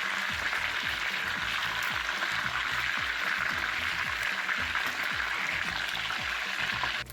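Chicken pieces frying in hot vegetable oil, a steady loud sizzle, over background music with a steady beat. Both cut off suddenly near the end.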